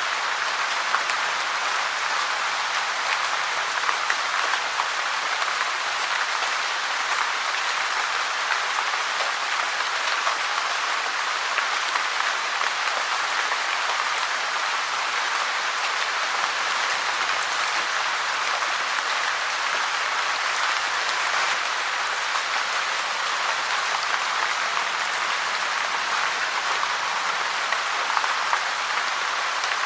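Steady rain falling, an even hiss with scattered light drop taps.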